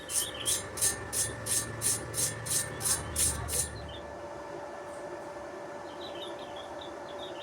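About a dozen rhythmic scraping strokes of a hand tool, roughly three a second, which stop about three and a half seconds in. A faint steady hum runs underneath.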